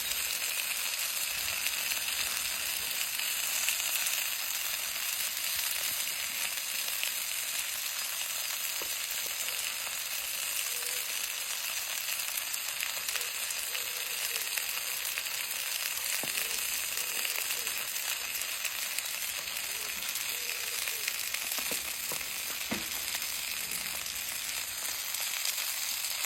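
Steak frying in a hot pan: a steady, high sizzling hiss of fat and juices, with a few faint pops.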